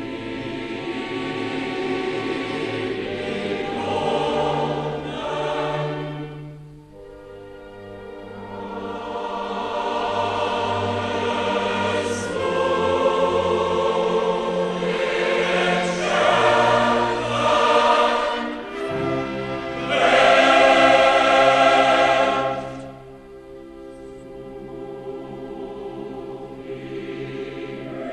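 Choral music with sustained voices, swelling and fading in long phrases.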